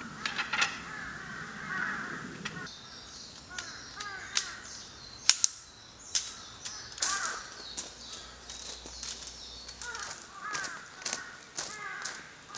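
Birds calling repeatedly in short arched calls, with sharp clicks and knocks scattered between them.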